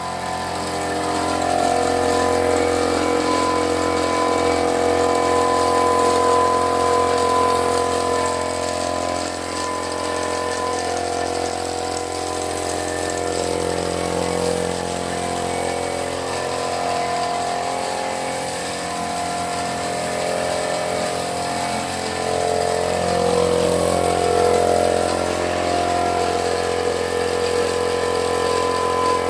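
A machine running steadily with a continuous humming drone, swelling slightly in level now and then.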